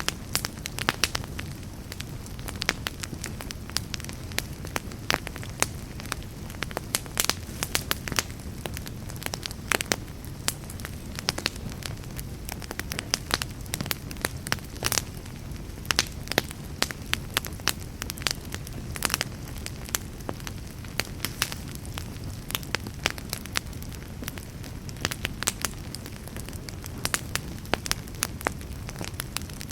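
Wood fire burning in a fireplace, with a steady low roar under many irregular crackles and sharp pops.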